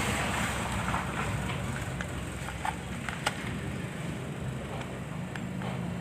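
A few light, sharp plastic clicks from handling a small toy quadcopter, over a steady low rumble.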